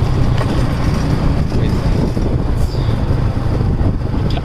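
A vehicle travelling steadily along a road: a constant low engine drone under rushing road and wind noise.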